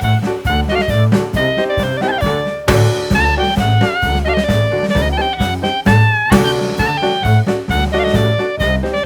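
Live band music with a high, shrill lead melody that bends in pitch, over a steady drum beat and bass.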